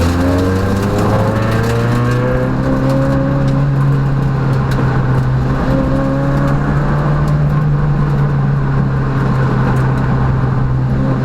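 Peugeot rally car engine heard from inside the cabin, pulling hard with revs climbing over the first few seconds and then holding high and steady, with scattered light ticks over the top.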